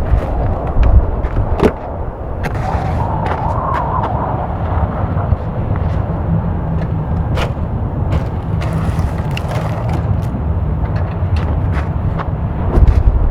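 Strong gusting wind buffeting the microphone, a heavy low rumble that surges at the start and again near the end, with scattered sharp ticks.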